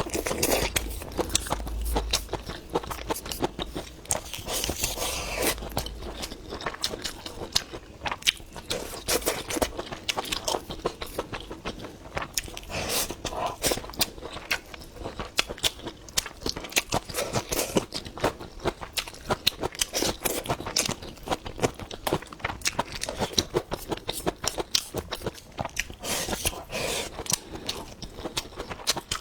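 A person chewing and crunching food with the mouth close to the microphone: a steady run of wet mouth clicks and crunches, several a second.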